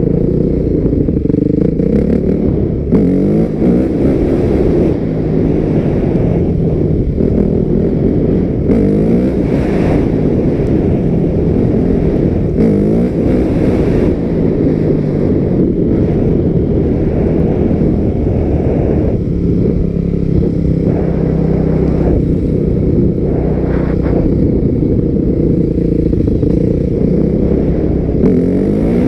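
A 250 dirt bike engine being ridden hard. It revs up again and again, its pitch climbing in repeated sweeps and dropping back between them.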